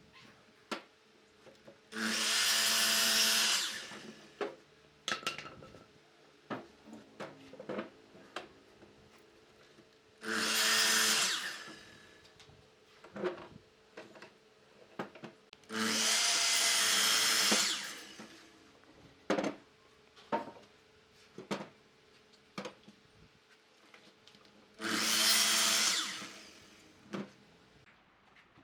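A handheld power tool working wood, run in four short bursts of about two seconds each, its motor pitch rising as each burst starts, with clicks and knocks of handling between the bursts.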